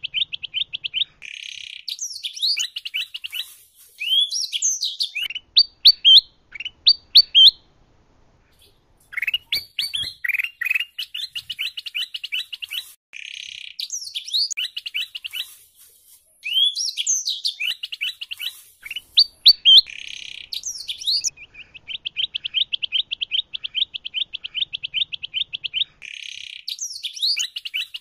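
Songbird recording mixing canary song with kutilang emas (bulbul) calls: fast rolling trills alternate with sharp slurred whistles and chirps. The same phrase sequence repeats about every twelve seconds, as in a looped training track, with brief pauses between runs.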